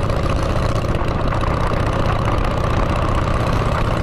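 Motorcycle engine running steadily through freshly fitted aftermarket exhaust pipes, a low, even exhaust note.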